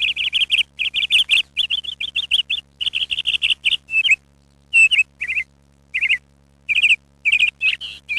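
A small bird chirping: quick high chirps in fast runs, then in short clusters with brief pauses after about four seconds.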